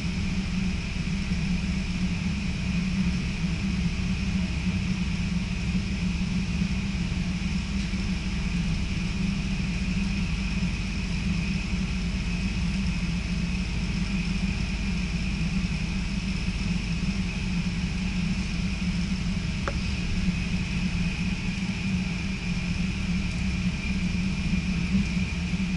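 Electric passenger train running at speed, heard from inside the carriage: a steady low rumble with a faint, steady high hum above it. There is one small click about twenty seconds in.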